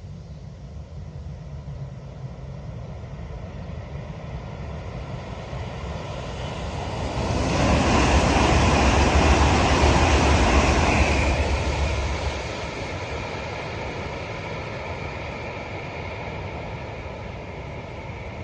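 Kyushu Shinkansen train passing at high speed: a rushing noise that builds over several seconds, is loudest for about four seconds in the middle, then fades away.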